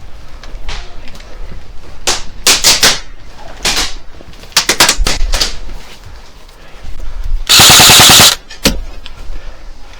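Airsoft guns firing: scattered single shots and short quick strings of shots, then a loud full-auto burst lasting under a second about three-quarters of the way through.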